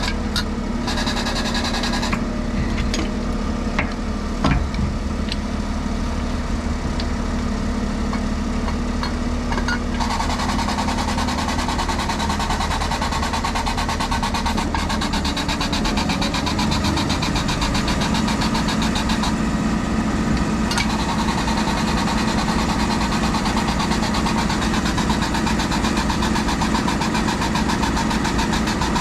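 An engine running steadily, with a few metal clanks in the first few seconds. About ten seconds in it picks up and runs louder and fuller while the tire's bead is being broken.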